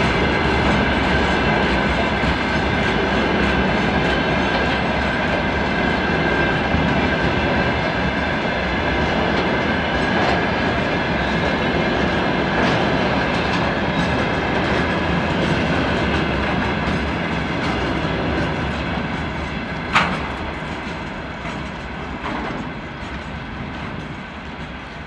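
Freight train wagons rolling past, wheels clattering over rail joints under a steady high-pitched ringing tone. A single sharp knock about 20 seconds in; near the end the sound fades as the last wagons go by.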